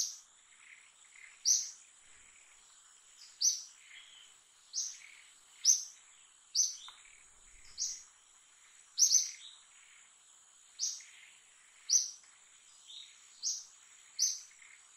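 A bird calling over and over: about a dozen short, high notes that fall in pitch, roughly one a second, over a steady high-pitched hum.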